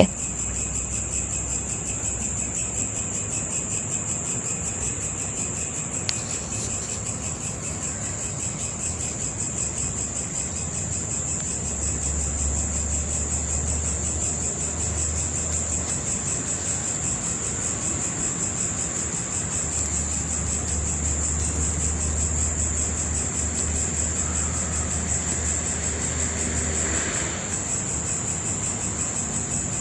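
Insects trilling steadily at a high pitch, with a low hum coming in twice in the middle.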